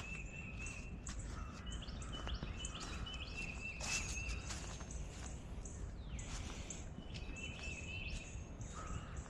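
Woodland birds chirping and calling: many short repeated high notes at a few different pitches, with one falling note about six seconds in, over a faint steady background hiss.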